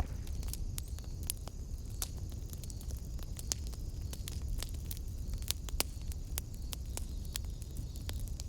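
Wood fire in a fireplace burning with a steady low rumble and frequent, irregular sharp crackles and pops.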